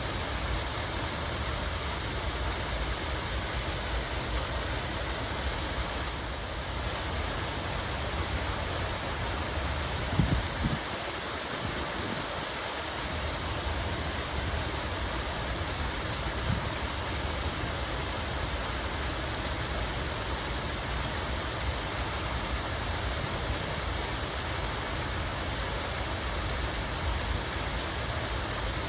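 Water running and splashing steadily in a park, an even rushing sound with no let-up. A few brief low thumps break in about ten seconds in and once more a few seconds later.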